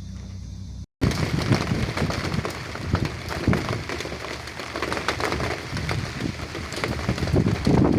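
Heavy rain falling on a hard surface, dense with sharp close drop hits, starting after a brief cut about a second in. Before the cut, a low steady hum.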